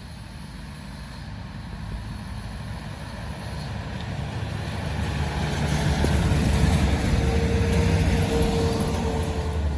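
Loaded truck approaching along the road, its engine rumble growing steadily louder, with a steady whining tone joining about halfway through.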